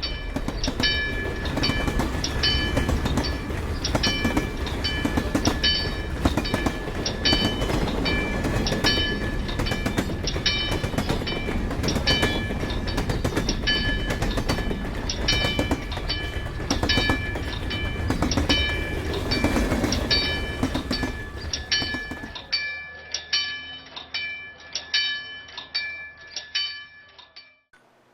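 A train rumbling past while a railroad crossing bell rings quickly and steadily. The train's rumble fades out about 22 seconds in, and the bell keeps ringing for a few seconds more before stopping.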